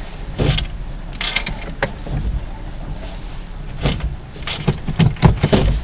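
Small manual car heard from inside the cabin: a low engine rumble with scattered clicks and clunks from the controls as the driver works the clutch and key after a stall.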